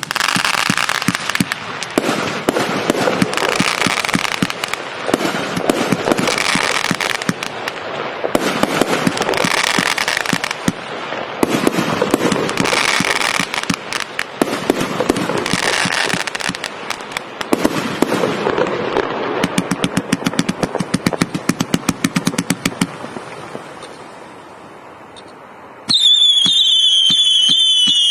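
A 238-shot fireworks cake firing a dense, continuous string of launches and bursts with crackle. Toward the end the shots come in a fast, even run, thin out and fade, and then shrill, wavering whistles start a couple of seconds before the end.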